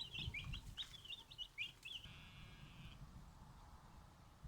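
Young turkey poults peeping in quick, short chirps for about two seconds, then one buzzy, trilled note held for about a second before they fall quiet.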